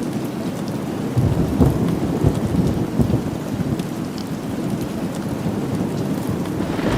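Steady rain falling, with a deep roll of thunder that swells about a second in and rumbles on.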